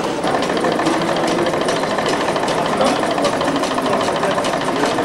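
A small machine running with a rapid, even mechanical clatter, several knocks a second, typical of a model heat engine at work.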